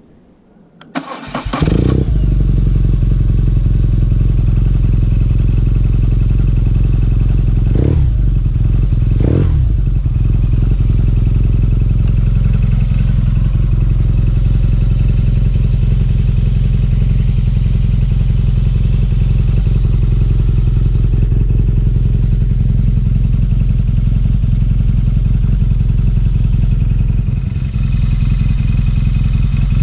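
BMW R nineT's 1170 cc boxer twin, its exhaust flap removed and a Booster Plug fitted, starting up about a second and a half in and then idling steadily, with two short throttle blips about 8 and 9.5 seconds in.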